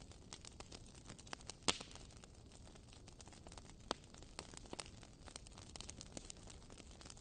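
A fire crackling: irregular pops and snaps over a faint hiss, with a sharper pop just under two seconds in and another about four seconds in.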